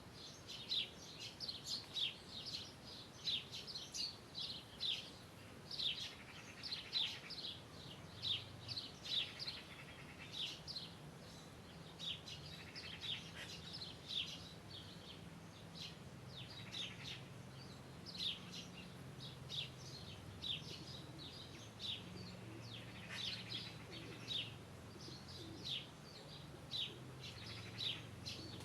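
Small birds chirping, a steady stream of short high calls several times a second. A faint low hum comes in under them about a third of the way through.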